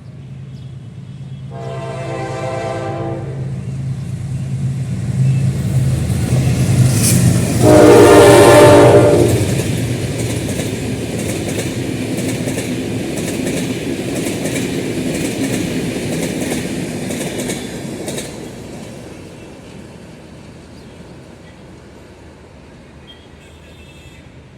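General Electric diesel locomotive passing with its train, sounding its horn twice over the engine's steady rumble: a shorter blast about two seconds in and a louder one about eight seconds in. The wagons then roll by with a clickety-clack of wheels on the rail joints, fading away in the last few seconds.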